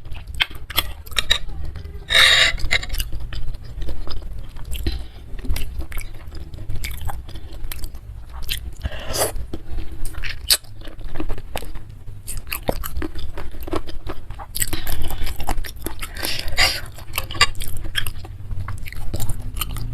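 Close-miked mouth sounds of a person eating spicy bakso meatball soup with chicken feet and noodles: chewing and biting with wet clicks and a few crunches, and louder bursts twice in the first half and again near the end.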